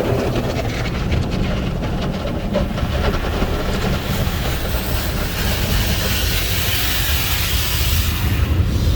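Car wash tunnel equipment working over a car: a steady low rumble with rapid clattering for the first few seconds, then a loud hiss that starts about four seconds in and stops just before the end.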